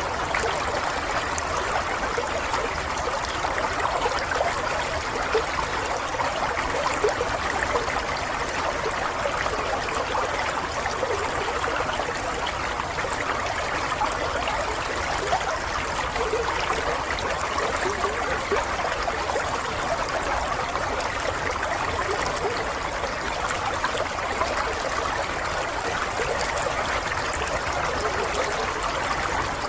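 Water flowing steadily in a small stream, an even trickling run with fine bubbling detail and no breaks.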